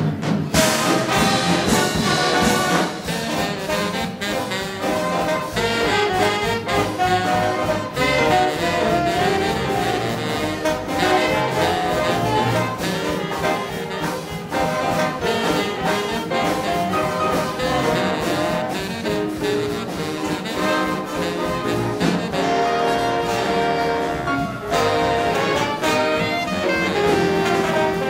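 Big band jazz orchestra playing a swing-era tune, with trombones and trumpets leading over a steady beat.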